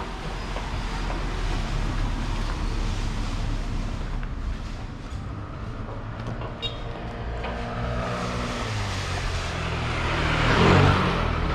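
Road traffic: steady engine and tyre noise, with one vehicle passing close and loudest near the end.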